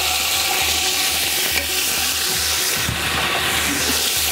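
Hot oil and sauce sizzling steadily in a large metal cooking pot on a wood-fired stove, as turmeric is spooned in for a potato qorma.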